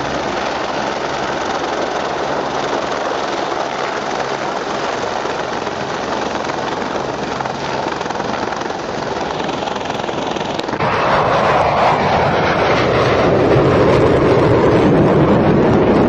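Aircraft engine running with a steady drone, which gets louder and fuller about eleven seconds in.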